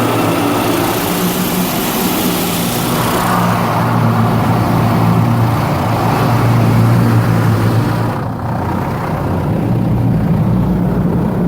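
Inside a car going through an automatic car wash: a steady low hum of running machinery and the idling car, with a hiss of water spray over it that thins out and has largely stopped about eight seconds in.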